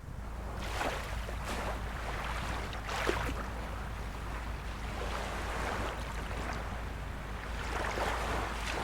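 Small waves of a calm sea lapping and splashing on the shore: a steady wash with soft splashes every second or few, over a steady low rumble.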